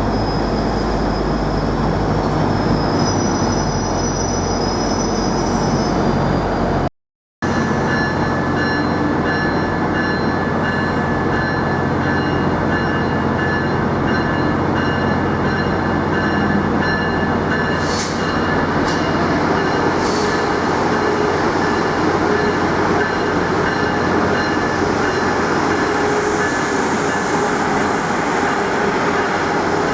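A train running by, a steady rumble with several high, thin whining tones held over it. The sound drops out completely for about half a second around seven seconds in.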